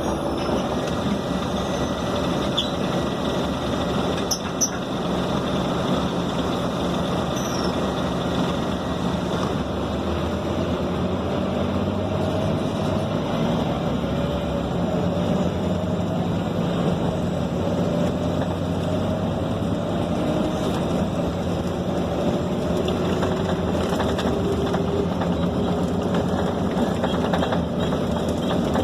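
Scania K270 city bus heard from inside the passenger cabin while under way: the diesel engine runs with its pitch rising and falling as it pulls and changes gear, over steady road and body noise. A couple of brief sharp rattles come about four to five seconds in.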